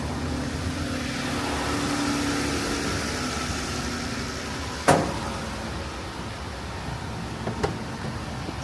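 Jeep Grand Cherokee's 3.6-litre V6 idling steadily just after its oil filter housing gaskets and oil pressure sensor were replaced, with a sharp knock about five seconds in and a lighter click near the end.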